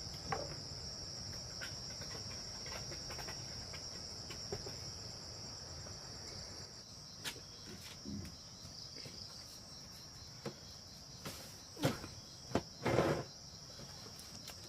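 Insects chirring in a steady high drone, with a few short knocks in the second half.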